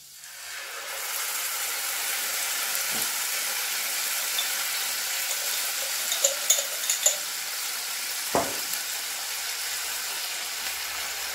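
Bagoong (shrimp paste) sizzling and frying as it is spooned into hot oil and browned garlic in a stainless steel saucepan. The sizzle swells over the first second, then holds steady. A few sharp spoon clicks come past the middle, and a single knock follows shortly after.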